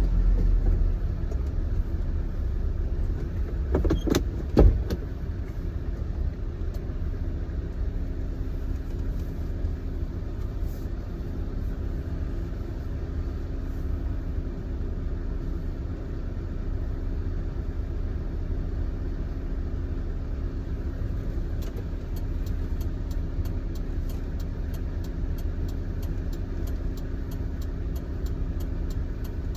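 Car engine and road noise heard from inside the cabin while driving at low speed, a steady low rumble. A sharp knock comes about four to five seconds in, and faint regular ticks run through the last third.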